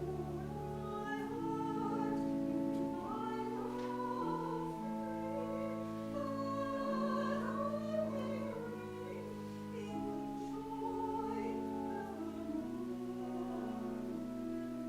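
Voices singing a slow hymn over sustained accompanying chords that change about once a second.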